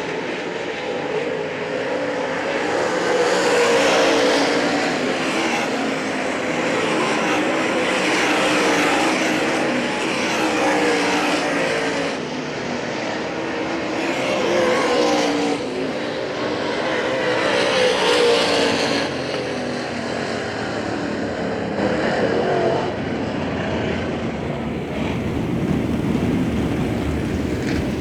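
Late Model Sportsman dirt-track race cars running hot laps, their V8 engines rising and falling in pitch and swelling in loudness every few seconds as several cars pass.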